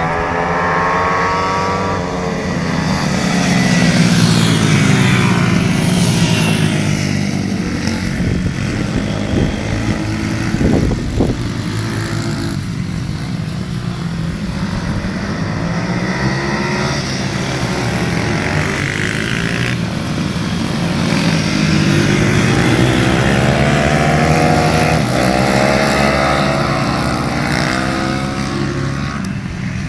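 Pit bikes riding a supermoto track, their small engines revving up through the gears and easing off again. The sound swells louder twice, around a few seconds in and again past the middle, as the bikes come close.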